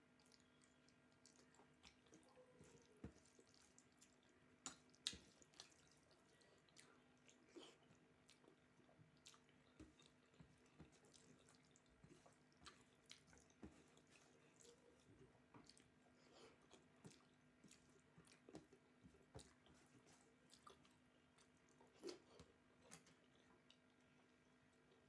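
Faint, wet chewing and mouth sounds from eating soft food, with small clicks and smacks coming irregularly, a few of them louder.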